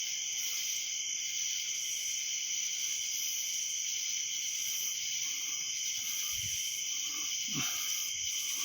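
Night insect chorus: crickets and katydids, a steady high-pitched trill with rhythmic pulsed chirps above it, repeating about once or twice a second.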